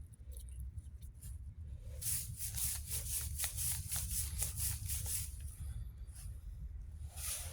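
Footsteps crunching and rustling through dry forest undergrowth, an irregular run of crackles that thickens after about two seconds, over a low steady rumble.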